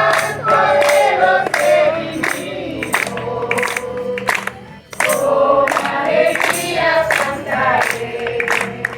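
A group of voices singing a worship chorus in Spanish over a steady percussive beat about twice a second. There is a brief break in the singing just before the middle.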